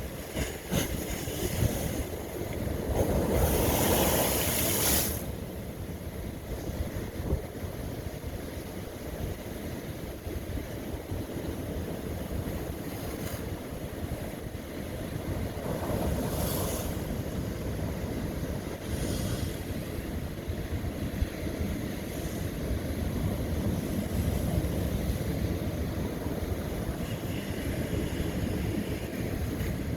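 Ocean waves breaking on lava rock over a steady rumble of surf. The loudest wash comes about three to five seconds in, with a smaller one about sixteen seconds in.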